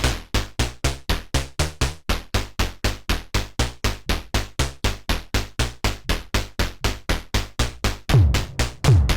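Eurorack modular synthesizer with a Modbap Osiris wavetable oscillator playing a sequence of short staccato notes, about four a second. About eight seconds in, a louder deep hit with a sharp downward pitch drop, like a synth kick drum, joins the pattern.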